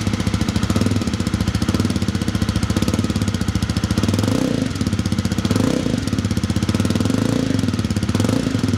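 The 2024 Jawa 350's 334 cc liquid-cooled single-cylinder engine running at idle through its twin exhausts, its note lifting slightly a few times with light blips of throttle.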